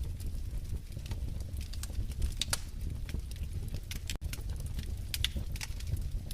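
Wood fire crackling in a fireplace: irregular sharp pops and snaps over a low steady rumble, with a momentary dropout about four seconds in.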